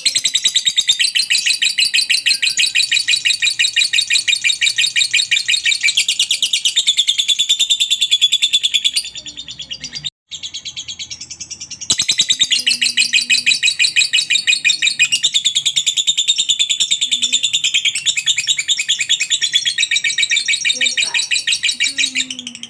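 Lovebird's long, rapid chattering song ('ngekek'): an unbroken fast string of sharp, high notes, dropping off and breaking briefly about nine to twelve seconds in before resuming.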